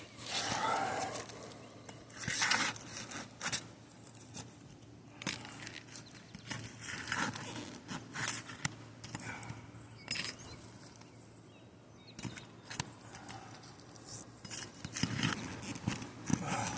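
Scattered clicks, scrapes and light metallic clinks with quiet stretches between, from asphalt shingles being lifted and handled on a roof.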